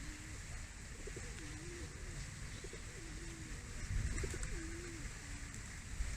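A bird of the pigeon family cooing: a series of low, wavering coos repeated several times, with a brief low rumble about four seconds in.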